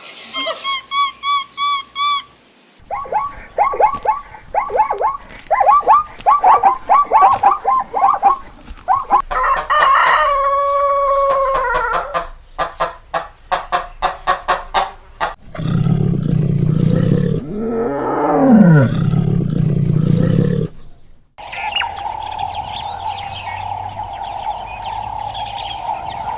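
A string of short farmyard animal clips cut one after another: chickens clucking in quick runs and a rooster crowing, followed by lower animal calls.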